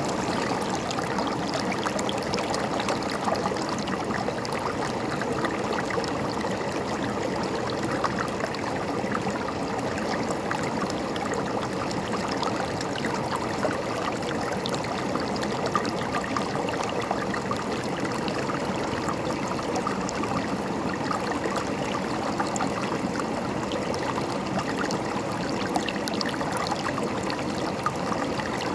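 River water running steadily over rocks, a continuous babbling and gurgling rush.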